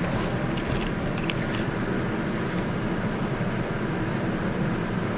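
2006 Dodge Dakota's engine idling steadily, with a few faint clicks in the first second and a half. The truck shakes at idle, which the mechanic is chasing as a random misfire, though no cylinder shows misfires on the scan tool.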